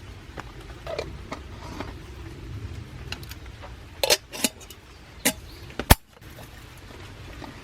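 A few sharp clicks or knocks over a low steady rumble, four of them in the second half, the last and loudest coming just before the sound briefly dips.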